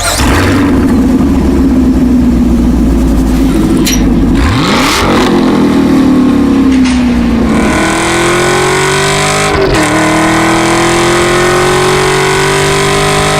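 Chevrolet Camaro SS 6.2-litre V8 running through a Borla exhaust, revving and accelerating: the exhaust note holds steady, falls away for a few seconds, then climbs in pitch through the second half with a brief dip about ten seconds in.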